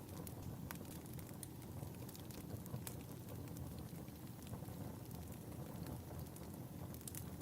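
Fireplace fire crackling: a steady low rumble of burning with scattered sharp pops and snaps at irregular intervals.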